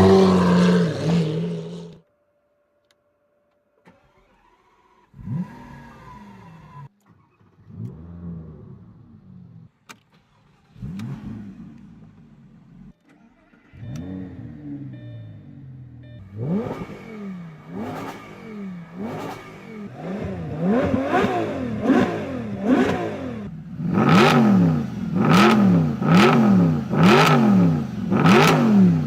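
Car engines revving, in a run of short clips. A loud engine cuts off about two seconds in, and after a brief silence and some quieter engine sounds, an engine is revved over and over in quick throttle blips about once a second, getting louder toward the end.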